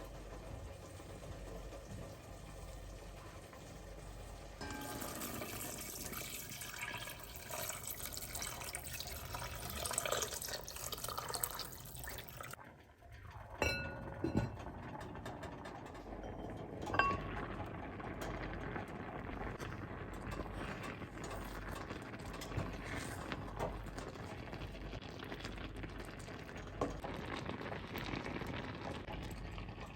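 Water running and splashing, with a few light clicks and knocks. The flow is heavier for several seconds, stops abruptly and comes back quieter.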